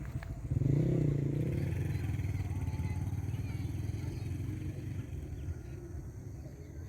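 A motor vehicle's engine running, swelling suddenly about half a second in and then slowly fading.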